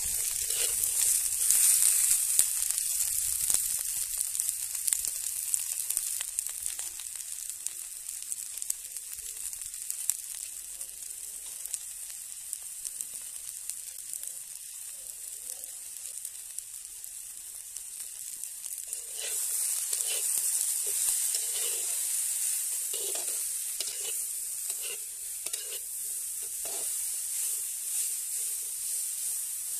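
Cauliflower florets sizzling as they fry in a kadai, with a metal spatula scraping and stirring them against the pan. The sizzle is loudest near the start and again from about two-thirds through, where the spatula strokes come in a quick, steady run.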